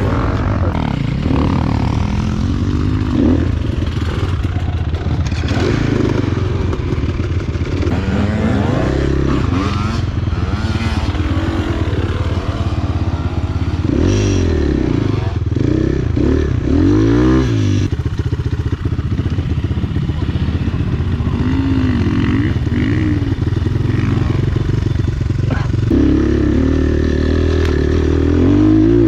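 Enduro dirt bike engine being ridden off-road, revving up and falling back again and again as the throttle is worked and gears are changed, with some rattling.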